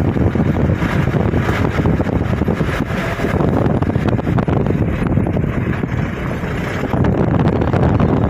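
Wind buffeting the microphone over the steady rush of swollen floodwater pouring over a riverbank.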